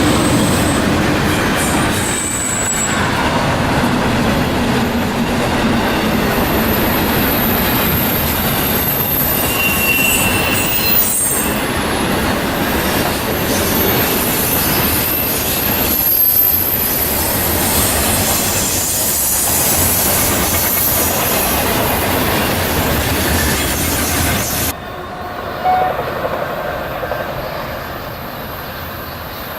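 A train passing close by: loud steel wheels running on the rails, with high-pitched wheel squeal and clacking over the rail joints. About 25 seconds in it cuts abruptly to a quieter, duller rumble.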